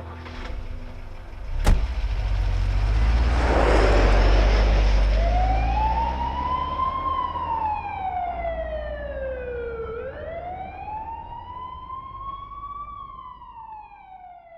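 An emergency-vehicle siren wailing slowly, its pitch rising and falling twice, over a low traffic rumble. Before it comes a sharp click, then a rush of noise that swells and fades.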